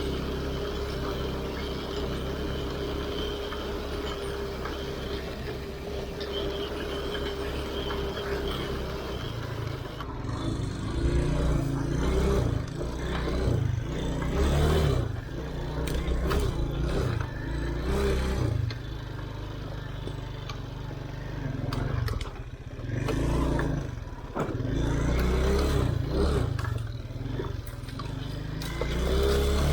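Off-road motorcycle engine running steadily, then from about a third of the way in revving up and down again and again.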